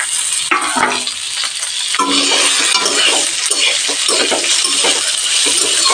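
Fried vegetables sizzling in hot mustard oil in a kadai while a spatula scrapes and clinks against the pan, stirring them in.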